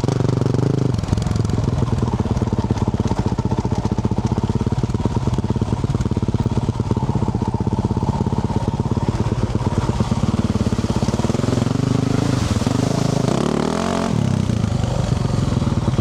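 2024 Yamaha YZ450F's single-cylinder four-stroke engine, fitted with a Yoshimura RS-12 exhaust, running steadily under throttle while riding. Near the end the engine pitch climbs and then drops back.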